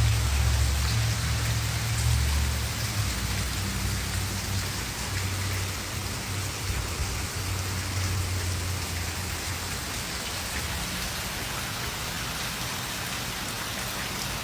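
Steady rain falling, an even hiss, with a low rumble in the first few seconds and again around the middle that fades toward the end.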